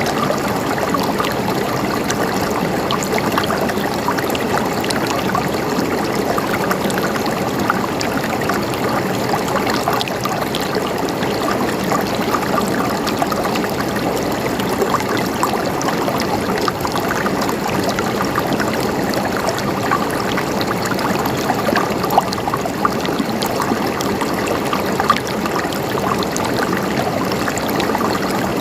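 River water flowing and splashing over rocks, a steady rushing with many small splashes and gurgles.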